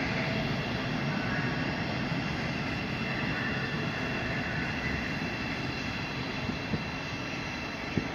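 Steady rumble and hum of an electric train close by, with a faint high whine running through it.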